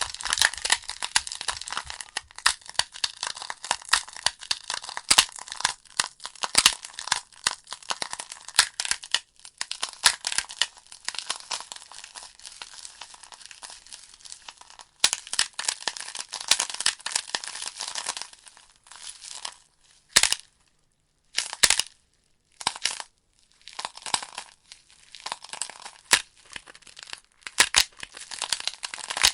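Wood fire burning in a fireplace, crackling with dense, sharp pops and snaps of burning logs. About two-thirds of the way through the crackling thins to a few isolated pops with brief near-silent gaps, then picks up again.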